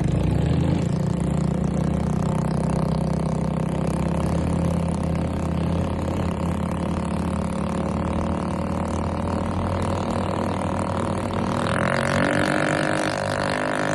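Minibike's small engine running steadily, then revving up, rising in pitch, about twelve seconds in.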